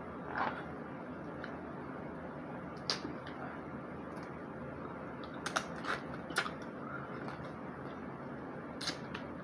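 Snow crab shells cracking and clicking as the legs are broken open and picked apart while eating: scattered sharp cracks, a few in quick succession around the middle and one near the end, over a steady low hiss.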